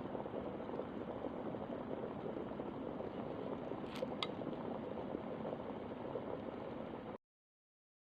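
Foldable stainless-steel travel electric kettle heating water towards the boil, a steady rushing bubbling noise. Two short clicks come a little past halfway, and the sound cuts off suddenly near the end.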